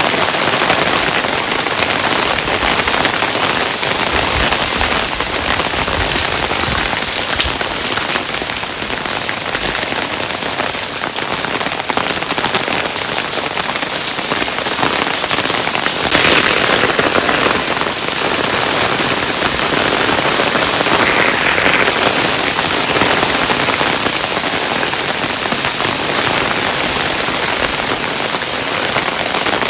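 Hailstones falling and striking a surface: a dense, steady stream of many small impacts.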